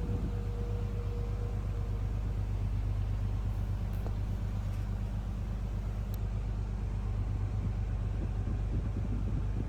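Diesel engine of a Seagrave Attacker fire engine idling with a steady low rumble, with a steady whine that stops about two seconds in.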